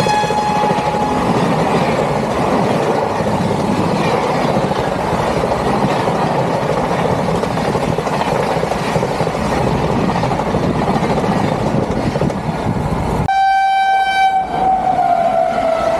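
A high-speed passenger train running past with a steady rush of wheel and track noise. Its horn sounds briefly at the start and again for a longer blast near the end, and the pitch of the second blast drops as the train goes by.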